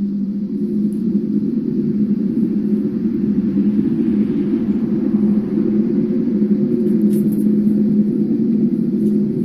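A loud, deep, steady droning hum from the sky, with one strong low note held evenly and no change in pitch. It is the kind of unexplained 'strange sky sound' that seems to come from all directions at once.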